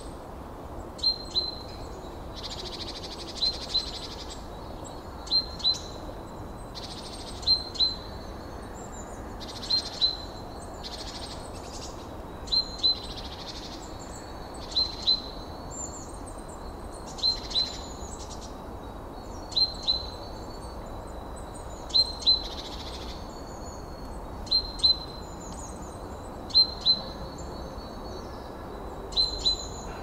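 Birdsong: a bird repeats a sharp, high double chirp about every two seconds, over steady background noise.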